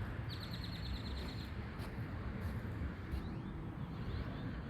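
Wind buffeting the phone's built-in microphone as a steady low rumble. A bird gives a rapid high trill of about a dozen quick notes a quarter second in, lasting just over a second, with a few faint chirps after.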